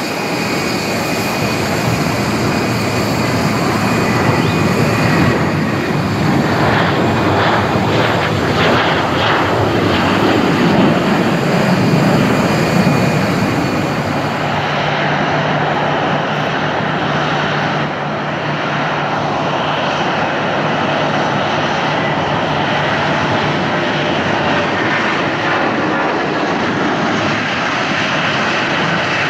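Boeing 737-800's CFM56 jet engines running as the airliner passes close by: a high turbine whine over a broad rumble, loudest about ten to thirteen seconds in, then settling to a steadier, duller hum with less whine.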